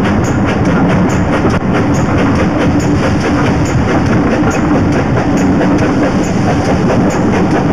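Steam-hauled passenger train running, heard from an open carriage window: a loud, steady rumble and rattle with a faint regular tick a little under once a second.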